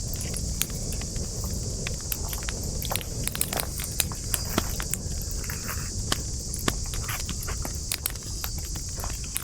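Wood campfire crackling: irregular sharp pops and snaps over a low steady rumble of flame. A steady high-pitched insect chorus runs underneath.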